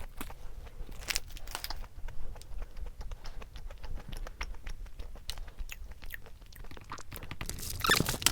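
Close-miked eating sounds: chewing and small mouth clicks, with a brief louder rustling burst near the end.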